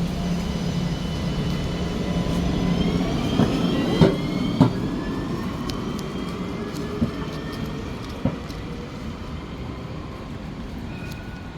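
Electric tram pulling away from the stop, its motor whine rising in pitch over a low rumble, then fading. A few sharp clicks or knocks, the loudest about four seconds in.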